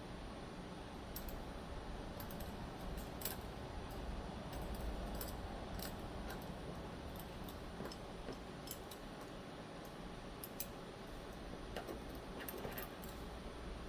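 Scattered light metallic clicks and taps, irregular and spaced out, from small folding-knife parts and a screwdriver being handled, over a low steady hum.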